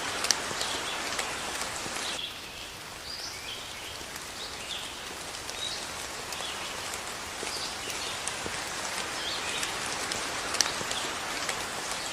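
Steady rain falling, with sharp drips now and then. About two seconds in, the rain suddenly turns quieter, and birds chirp over it through the rest.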